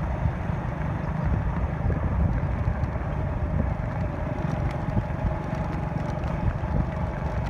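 Wind buffeting the microphone in blustery, drizzly weather: a steady, fluttering low rumble, with a faint steady hum behind it.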